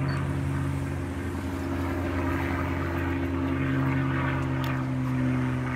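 P-51D Mustang's Packard Merlin V-12 engine and propeller running with a steady low drone. Its low tone shifts slightly a couple of times.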